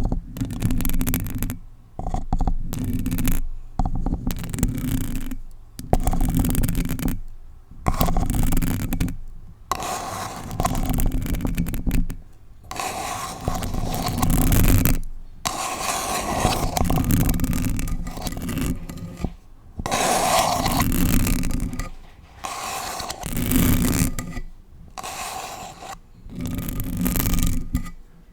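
Long artificial nails scratching on a paper cup and directly on a bare Blue Yeti microphone, in repeated rough strokes a second or two long with brief pauses. Each stroke carries a deep rumble from the microphone being rubbed.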